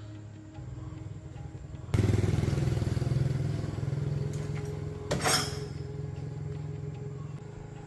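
Small Suzuki car engine starting up about two seconds in and running steadily, with a brief louder burst about five seconds in, over background music.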